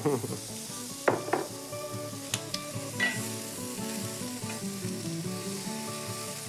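Shrimp sizzling in olive oil in a hot grill pan, with a wooden spoon stirring thick risotto and a few light utensil clicks, under soft background music.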